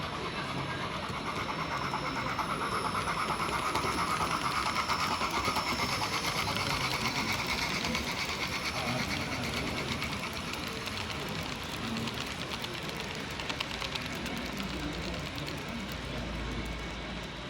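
A model train running on a layout: the whir of a small electric motor with fast, fine clicking of wheels on the track. It grows louder a few seconds in, then eases off as it passes.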